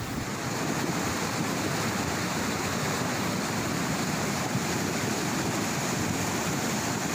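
Swollen floodwater rushing steadily downhill, a mountain stream in spate after heavy rain.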